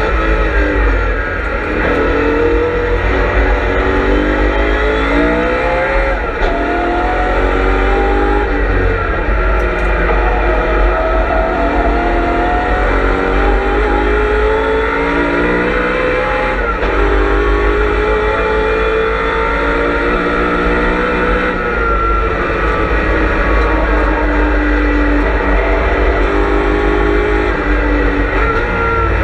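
BMW M3 E92 race car's V8 engine heard on-board under hard acceleration. Its pitch climbs through the revs and then drops suddenly at each upshift, several times over, with a few longer, steadier stretches between.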